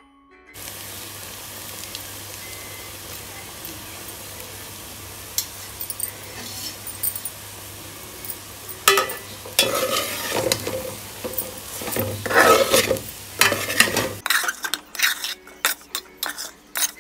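Stuffed bitter gourds sizzling steadily in oil in a pan. From about nine seconds in, a metal spatula scrapes and stirs against the pan as spice powder is mixed in. Near the end, the sizzle cuts off and only scattered scrapes and clinks of the spatula remain.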